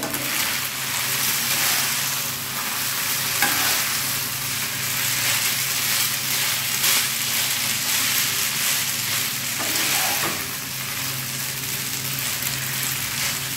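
Boiled noodles sizzling in hot oil in a nonstick frying pan while a wooden spatula stirs and tosses them, with a steady crackle and occasional scrapes of the spatula on the pan.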